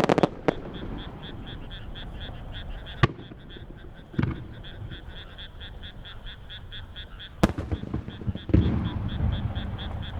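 Fireworks shells bursting: six sharp booms, the loudest at the very start and about eight and a half seconds in, some followed by a low rumble. Under them runs a steady rhythmic calling, about four high pulses a second.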